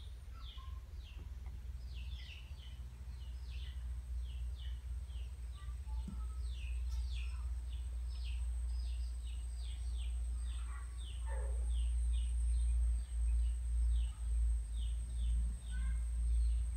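Small birds chirping over and over in short falling chirps, two or three a second. Beneath them runs a low rumble that grows louder about two-thirds of the way in and throbs unevenly, with a faint steady high whine above.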